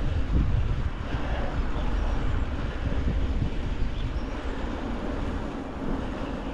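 Steady low rumble of a mountain bike being ridden, with wind buffeting the microphone and the rolling noise of the bike.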